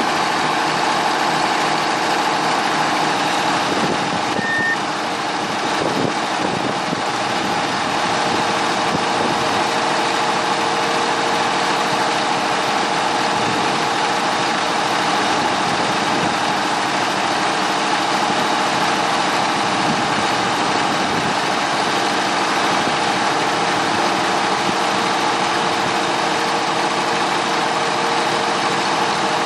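Diesel locomotive engine running steadily: a constant mechanical drone with a steady hum.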